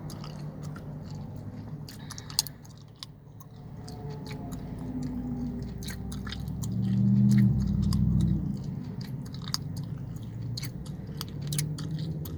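Chewing gum smacking and clicking in the mouth close to the microphone, with many short wet clicks in quick succession. A low hum underneath swells up about seven seconds in.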